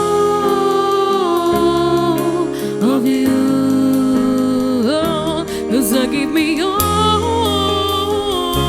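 Female singer's wordless vocal runs and held notes with vibrato over band accompaniment with sustained bass notes, in a live pop-ballad performance.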